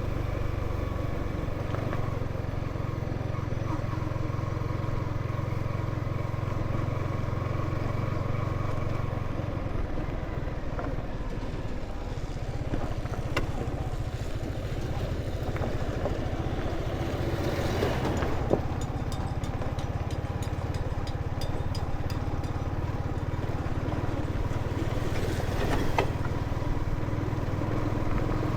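Motorcycle engine running steadily on the move, with a few sharp knocks and rattles. A rushing noise swells and fades twice, about two-thirds of the way through and again near the end.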